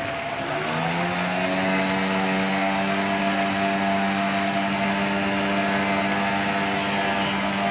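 An engine picks up speed about half a second in, rising in pitch, then runs steadily at constant revs.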